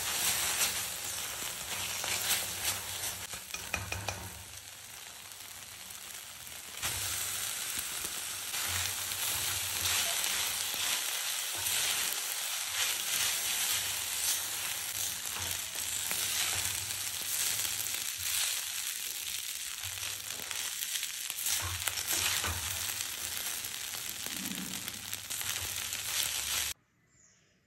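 Rice and sweetcorn sizzling as they are stir-fried in a wok, with a spatula scraping and knocking against the pan. The sizzle dips for a couple of seconds early on, picks up again, and cuts off suddenly near the end.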